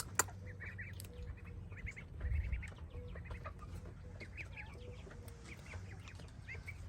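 A brood of week-old ducklings peeping in many short, high-pitched chirps. There is one sharp click just after the start.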